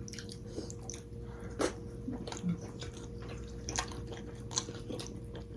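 Close-up wet chewing and lip-smacking from people eating momo dumplings, with scattered sharp clicks and smacks and a faint steady hum underneath.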